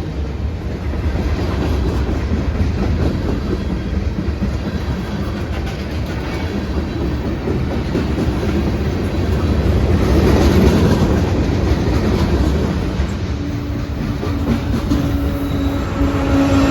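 Freight train cars rolling past, wheels clicking over the rail joints with a steady rumble; a steady whine joins in near the end.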